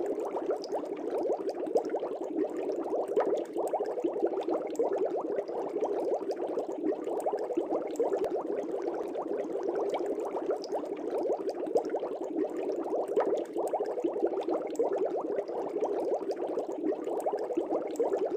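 Fish tank air bubbles rising and popping in a steady, dense stream of small bubbling clicks.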